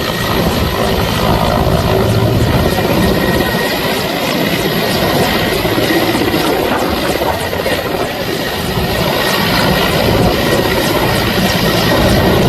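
Helicopter flying close by, its rotor and turbine engine making a loud, steady noise with a faint regular chop from the blades.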